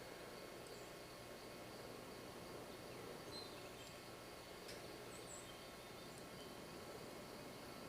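Faint outdoor ambience: a steady hiss under a thin, steady insect trill, with a few short high chirps and a single sharp click a little past halfway.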